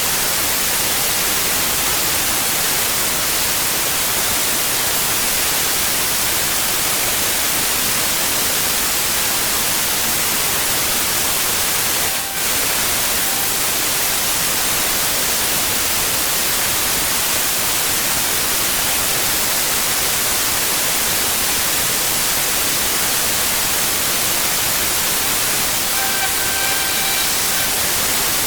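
High-pressure water jet from a pressure washer blasting block paving: a loud, steady hiss of spray on stone. It dips for a moment about twelve seconds in, and a faint whine comes in near the end.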